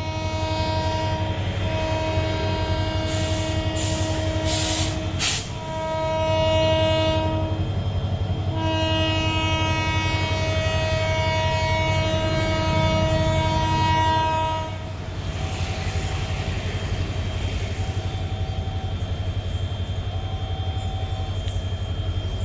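Diesel locomotive air horn sounding in three long blasts over the steady low rumble of the locomotive, then a few quieter, shorter horn notes near the end.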